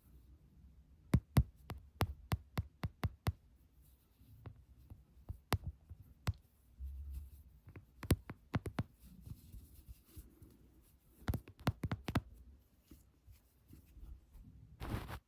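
Close-miked ASMR tapping: sharp, irregular finger taps, some single and some in quick runs of three or four, with a brief scratching rub near the end.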